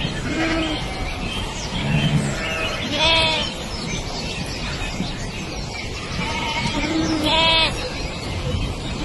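Animal calls: several short calls and two longer wavering ones, about three and seven and a half seconds in, over a steady rushing background noise.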